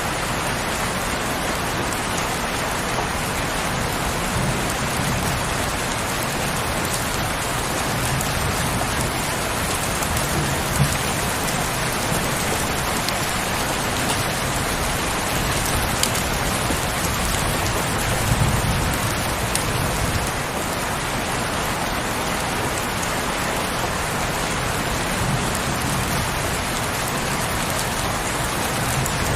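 Heavy rain falling steadily, with a few sharp louder drop ticks and now and then a brief low rumble.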